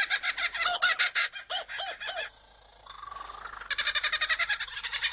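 Kookaburra laughing call: a rapid, even chatter of repeated notes that breaks off about two seconds in. After a short lull with a faint gliding note, the chatter starts again.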